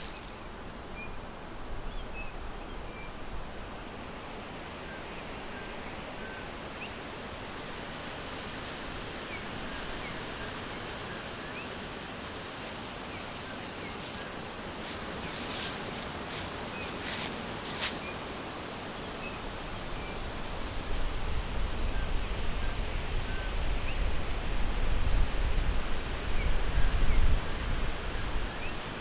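Forest ambience: a steady rustling hiss of wind in the trees, with faint, scattered short bird chirps and a few brief rustles near the middle. In the second half, low rumbling wind gusts on the microphone build up and become the loudest sound.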